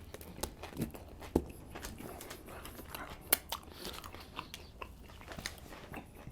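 A person chewing a mouthful of sub sandwich, with irregular crunches and wet mouth clicks, two sharper crunches standing out.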